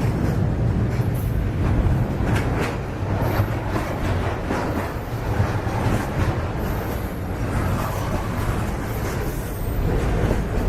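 Loaded freight train rolling past: a steady low rumble of the wagons with irregular clicks and knocks of wheels on the track. A thin high squeal comes and goes in the second half.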